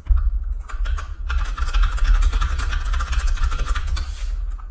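Rapid typing on a computer keyboard, a dense run of clicks lasting about three seconds, over a steady low rumble.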